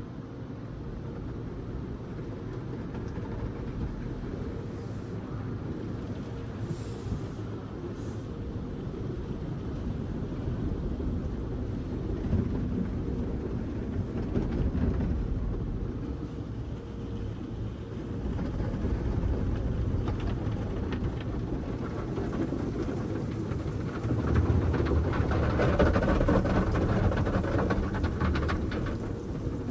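Automatic conveyor car wash working over the car, heard from inside the cabin: a steady rumble of water spray and washing machinery, growing louder near the end.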